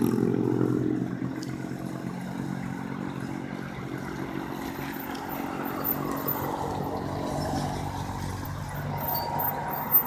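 A road vehicle's engine passing, loudest at the start and fading over the first second or two, leaving a lower steady traffic hum with an engine note that dips and rises in pitch around the middle.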